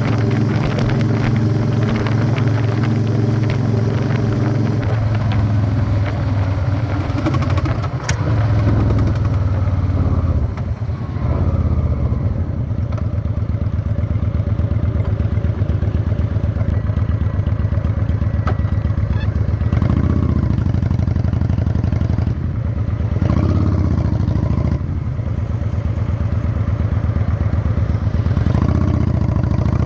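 Honda Shadow 600 chopper's V-twin engine running loud and steady, heard from the rider's seat. It drops in pitch several seconds in and settles to a lower, even beat after a brief dip, with short blips of throttle about two-thirds of the way through and near the end.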